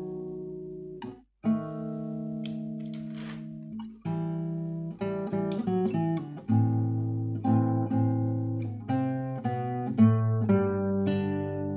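Seven-string acoustic guitar playing a slow, lyrical piece, plucking sustained chords and melody notes. There is a short break about a second in, and the notes come more often from about four seconds in.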